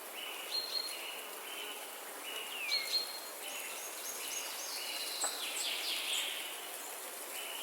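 Birds chirping: a run of short, evenly repeated notes about two a second, mixed with a few higher calls and one downward-sliding note, over a steady background hiss.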